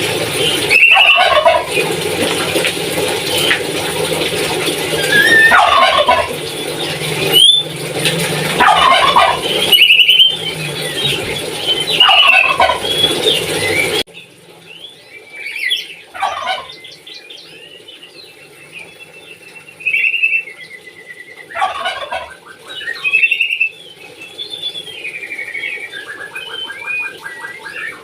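Papuan nuri parrot calling in imitation of a turkey's gobble: a run of loud calls, each falling steeply in pitch, about one every one to two seconds. About halfway the sound drops to a quieter passage of scattered chirps and whistles with a fast rattling trill near the end.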